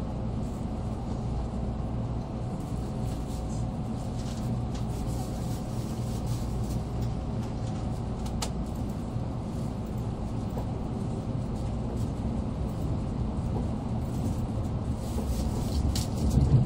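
Cabin noise of an N700A Shinkansen train running at speed: a steady low rumble from the wheels and running gear, with a brief louder low surge near the end.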